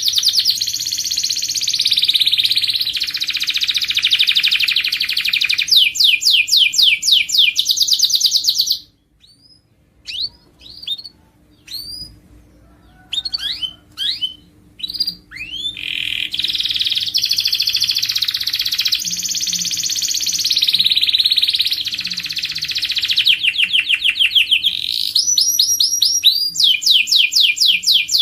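Canary singing long, rapid trills and rolling phrases. About nine seconds in the song breaks off into several seconds of scattered short chirps, then the full song resumes about sixteen seconds in. A faint steady hum lies underneath.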